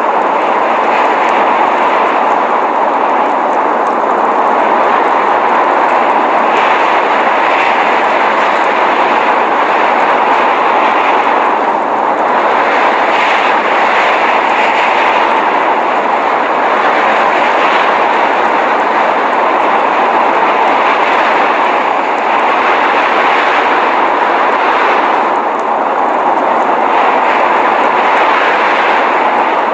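Steady rushing blizzard noise: an even hiss with no tone in it, swelling slightly now and then.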